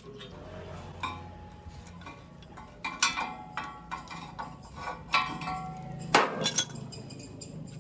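Metal parts clinking and tapping against each other, a dozen or so sharp strikes at irregular intervals, several ringing briefly after the hit, over a low steady hum.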